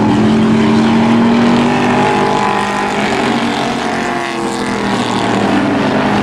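Several race truck engines running hard around an oval track, their pitches overlapping and rising and falling as the trucks go by.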